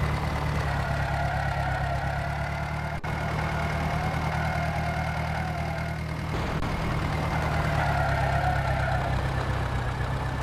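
Tractor diesel engine running steadily, with a steady high whine over it.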